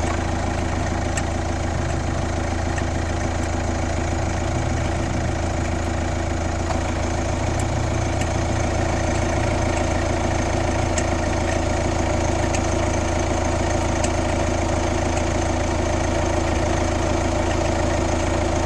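Kia Ceed 1.6 CRDi's D4FB four-cylinder diesel engine idling steadily, with a few faint irregular clicks. This is the weird engine noise the owner is recording.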